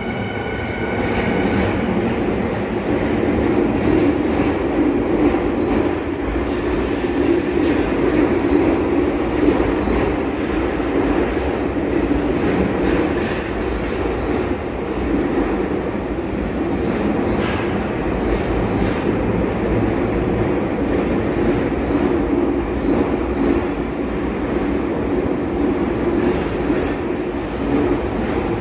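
Electric commuter train pulling out of an underground station and running past: a steady rumble of motors and wheels on the rails, with scattered rail clicks. A few high tones sound at the start and fade out within about two seconds.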